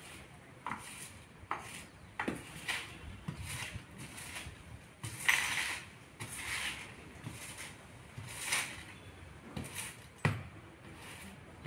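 Irregular light knocks and clatters of hard objects being handled, about a dozen in all, the loudest about five seconds in.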